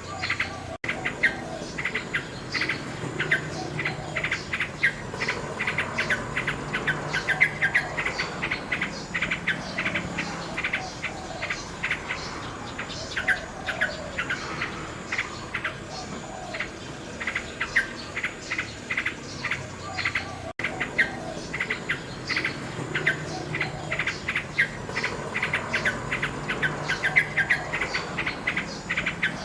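Common nightingale singing: fast runs of short, sharp repeated notes and chirps, phrase after phrase. The sound cuts out for an instant twice, about twenty seconds apart.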